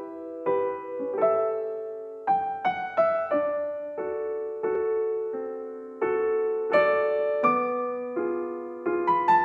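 Background piano music: a slow, gentle melody of struck notes and chords.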